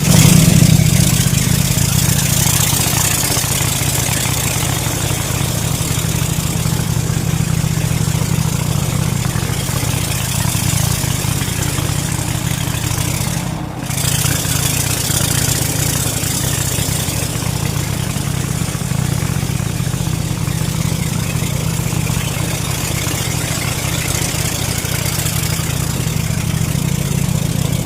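Speedboat engine running steadily at speed, a constant low drone mixed with a rushing hiss of wind and water, dipping briefly about halfway through.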